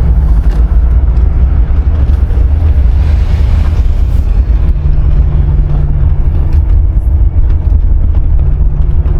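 Steady low rumble of a car driving, engine and tyre noise heard from inside the cabin, with a faint steady hum joining about five seconds in.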